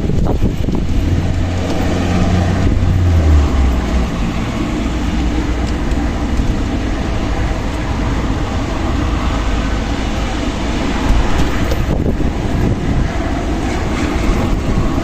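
Strong desert wind blowing steadily and buffeting the microphone, with a deep rumble.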